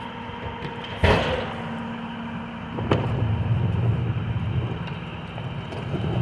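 Recycling truck's diesel engine running, with a sudden loud burst about a second in. From about three seconds in, after a lighter knock, the engine's low rumble gets louder.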